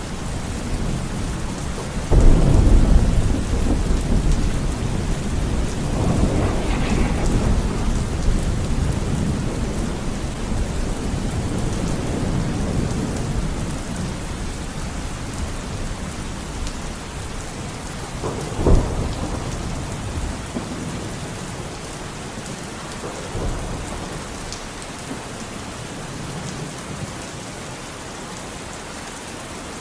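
Steady rain falling through a thunderstorm, with thunder: a loud crack and rumble about two seconds in, another rumble around seven seconds, a sharp clap about two-thirds of the way through, and the rumbling dying down toward the end.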